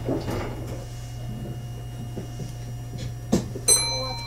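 Meitetsu 1200 series electric train standing at a platform, its onboard equipment giving a steady low hum. A sharp knock comes a little over three seconds in, followed at once by a bright ringing chime that fades away.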